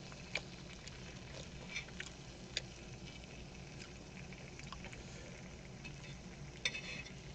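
Scattered sharp clicks and taps of utensils on a pan, over faint frying of pork belly and kimchi and a steady low hum. The loudest click comes near the end.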